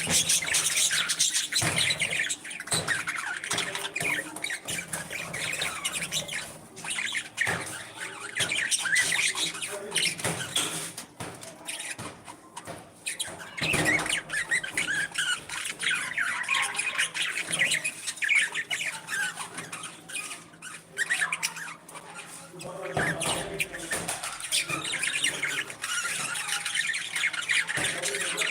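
Parrots chattering with overlapping squawks and chirps, with a few brief lulls.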